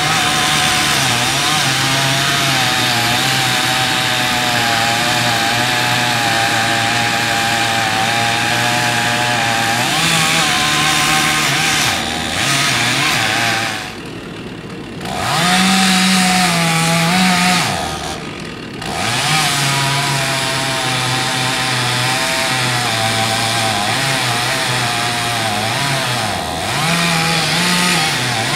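Chainsaw cutting into the trunk of a large tree being felled, running steadily under load. About halfway through it drops to idle, revs up high for a moment, then goes back into the cut.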